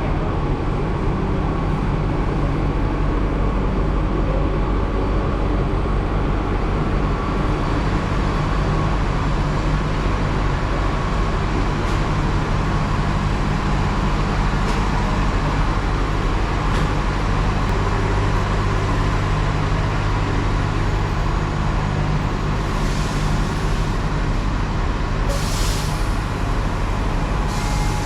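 Steady low drone of a bus engine with road noise, with two short hisses near the end.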